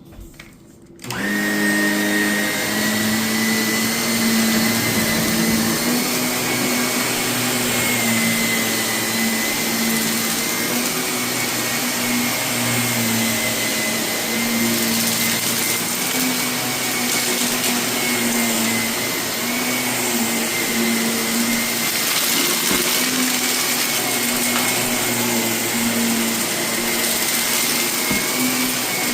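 Vacuum cleaner switching on about a second in, then running steadily with a high whine, vacuuming carpet covered in renovation debris, with a few faint ticks of grit being sucked up.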